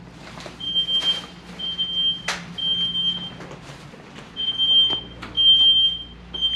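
Smoke alarm sounding: a high-pitched beep repeating about once a second, each beep lasting most of a second. A sharp click about two seconds in.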